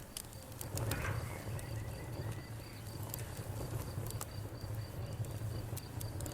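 Campfire burning: a steady low rumble of the flames with scattered sharp crackles and pops, the loudest about a second in. A faint high chirp repeats evenly in the background.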